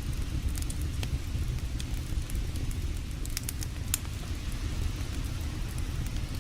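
Wood campfire crackling, with scattered sharp pops and snaps, over a steady low rush of creek water.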